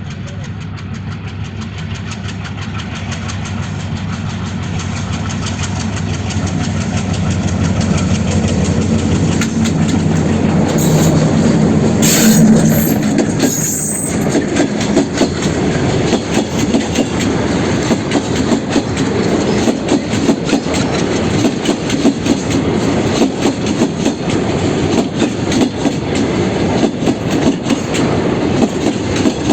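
WDM-3D diesel-electric locomotive approaching and passing, its engine hum growing steadily louder and peaking about twelve seconds in with a sharp hiss. A long string of covered goods wagons follows, with an uneven clickety-clack of wheels over the rail joints.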